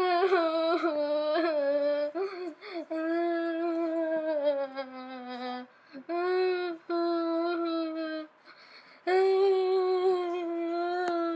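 A child singing or humming a slow tune in long held notes, with a few short breaks between phrases.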